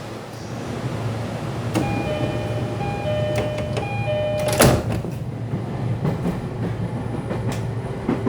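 Commuter train's electronic door chime sounding a few steady alternating notes, then the sliding doors shutting with a sharp thud, over the train's low running hum.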